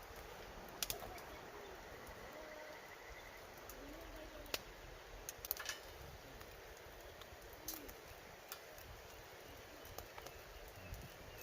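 Burning firewood crackling, with a few sharp pops at irregular intervals, a small cluster of them about halfway through. Wild birds call faintly in the background.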